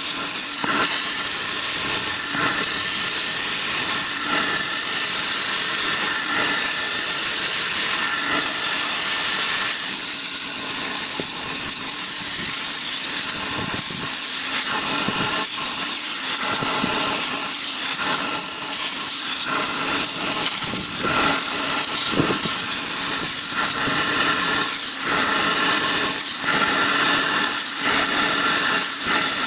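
Detailing equipment running: a steady, loud hiss of spray or air over a constant motor whine, with brief dips every second or two.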